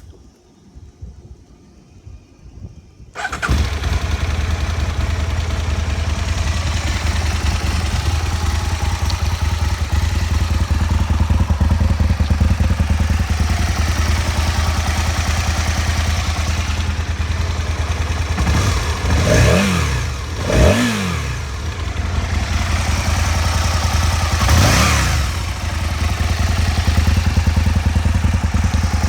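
Aprilia Tuono motorcycle engine starting about three seconds in and then idling steadily. The throttle is blipped twice in quick succession about two-thirds of the way through and once more a few seconds later, the revs rising and falling back each time.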